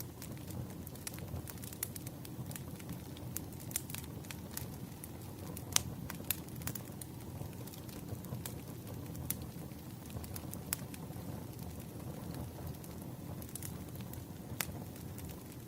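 Firewood fire crackling: a steady low rumble of flames with frequent sharp pops scattered through, two of them louder about six seconds in.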